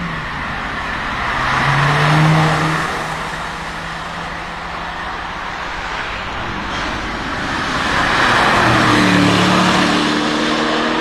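Cars driving past under power, each engine note swelling as it approaches: one about two seconds in and another from about eight seconds in.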